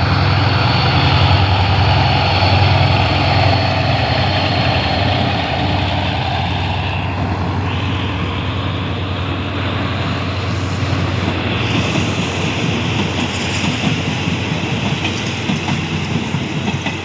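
A State Railway of Thailand GEA-class diesel-electric locomotive's engine runs loudly as it passes, with a strong low drone loudest in the first few seconds. Then a string of passenger coaches rolls by, their wheels clattering over the rail joints.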